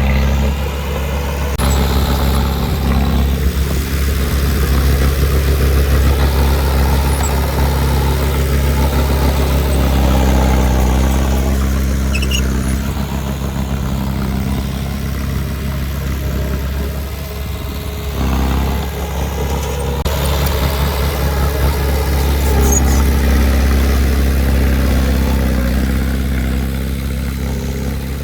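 Heavy earthmoving machine's engine running steadily at a low, even pitch, its level swelling and easing a little.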